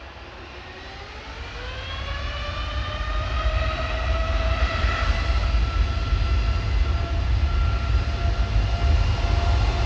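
Jet airliner's engines spooling up to takeoff thrust: a rising whine that levels off at a steady pitch about four seconds in, over a deep rumble that grows louder and then holds.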